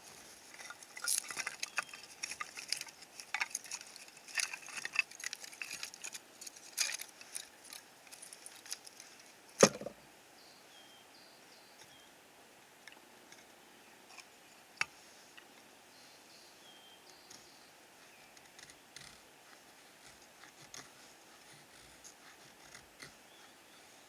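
A run of quick clicks, crackles and knocks, like things being handled and tapped, for the first nine seconds or so. One sharp loud knock comes about ten seconds in, followed by a few scattered faint clicks and a few short high chirps.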